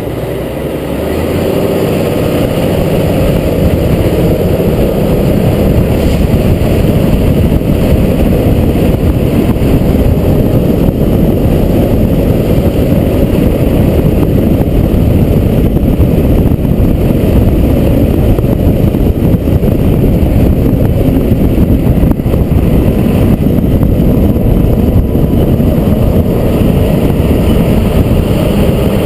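Fire truck on the move: a loud, steady rumble of engine, road and wind noise that swells over the first couple of seconds and then holds, with no siren heard.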